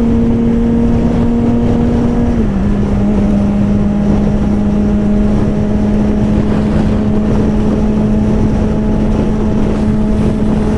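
2008 Suzuki GSX-R600 inline-four with an M4 slip-on exhaust, at a steady high-revving highway cruise, its pitch dipping slightly about two seconds in as the revs ease off, over heavy wind rush on the microphone.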